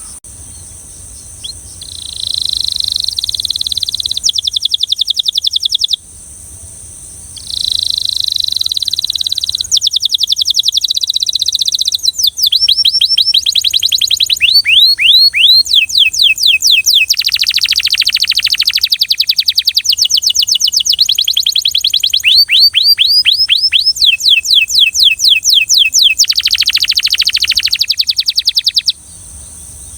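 Belgian canary singing a long song of fast trills, each phrase a rapid run of repeated notes, many sweeping down in pitch. The song pauses briefly about six seconds in and stops shortly before the end, over a faint steady high hiss.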